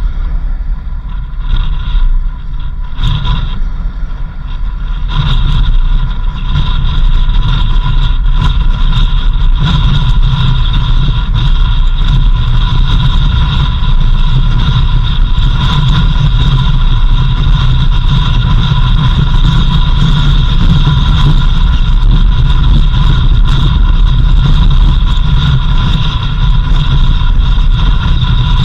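A 4x4 vehicle driving on a dirt country road, heard from inside: a steady low rumble of engine and road noise with a steady whine above it. The rumble grows louder about five seconds in and holds.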